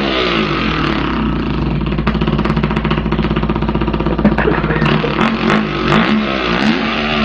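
A man imitating a dirt bike with his voice: one continuous buzzing engine note that revs up and down in pitch several times.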